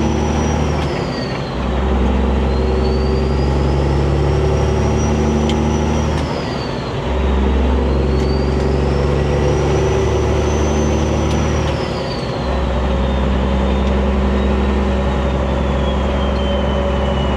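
Semi-truck diesel engine pulling away and accelerating up through the gears, with three brief drops in power as the driver shifts. A high whine climbs with each gear and falls away at each shift.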